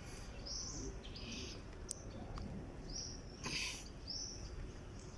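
A bird calling over and over, short high notes about once a second, over a steady low outdoor rumble. A brief noisy burst cuts in about three and a half seconds in.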